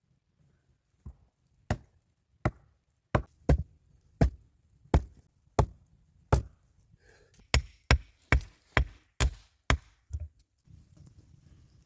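A blade chopping into wood with about fifteen sharp blows in a steady rhythm. The blows come quicker in the second half.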